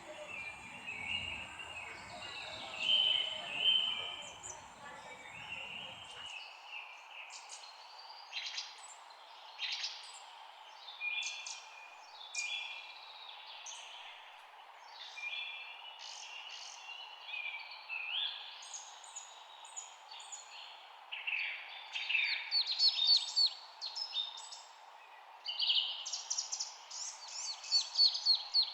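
Several birds chirping and calling at once: short overlapping chirps and quick trills that grow denser and louder in the last third, over a steady faint background hiss. A low rumble underneath stops abruptly about six seconds in.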